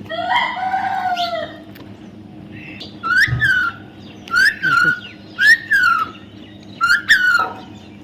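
A parrot calling: one drawn-out call at the start, then a run of short, sharp squawks from about three seconds in, each rising and falling quickly in pitch.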